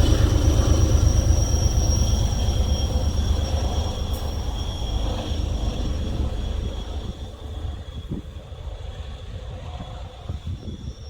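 A passenger train running past and moving away, its low rumble fading gradually, with a steady high-pitched whine that fades along with it.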